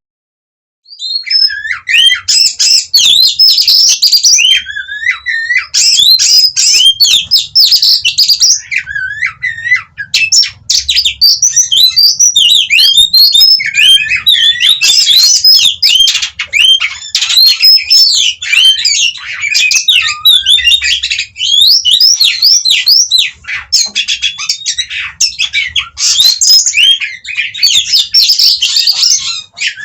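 Oriental magpie-robin (kacer) singing a loud, continuous, varied song of rapid gliding whistles mixed with harsher chattering notes, starting about a second in and running on with only brief pauses.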